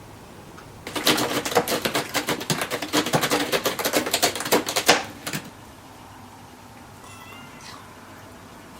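A fast, loud run of clicking or scratching lasting about four seconds, then a faint, short cat meow a couple of seconds later.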